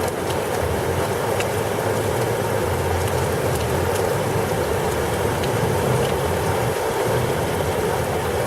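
Heavy thunderstorm rain pouring steadily, with a low rumble underneath and scattered small ticks of drops striking close by.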